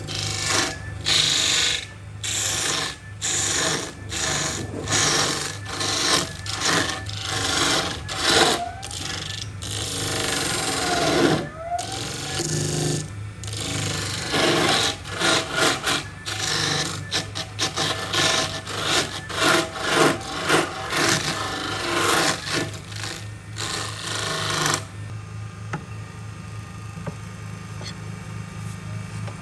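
Hand tool scraping over wood in repeated quick, uneven strokes; the strokes stop about five seconds before the end, leaving a steady low hum.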